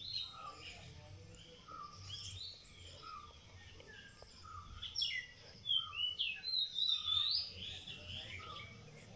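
Small birds chirping and calling, many short, quick chirps, busiest and loudest from about five to seven and a half seconds in.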